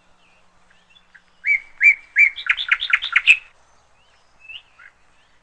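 A bird singing a phrase of quick chirps about a second and a half in, followed by a few faint single calls near the end.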